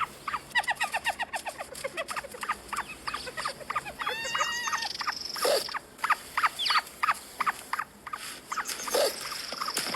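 Animals chirping and calling in rapid short bursts, with a longer pitched call about four seconds in and louder calls later on.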